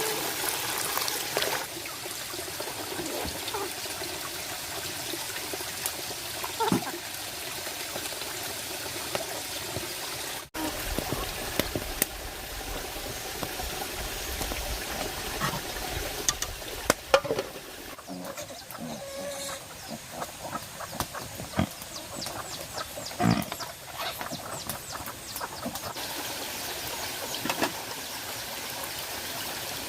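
Steady rush of flowing water, with scattered short knocks and rustles over it.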